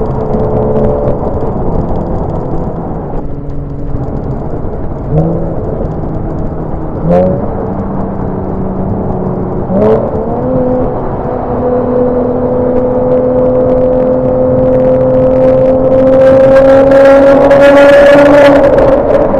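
Porsche 987 Boxster's flat-six engine on the move, with three short blips in revs, then a long steady pull with the pitch slowly rising and growing louder before it drops near the end.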